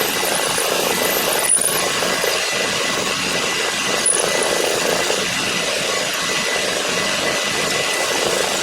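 A power tool in a machine shop running steadily on a workpiece, with two brief sharp ticks, about a second and a half in and again around four seconds.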